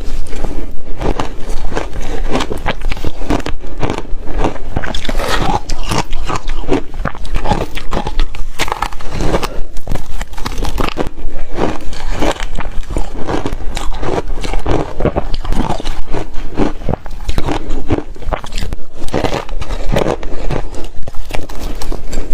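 A person loudly crunching and chewing reshaved refrigerator ice, a rapid irregular run of crisp crunches that barely pauses.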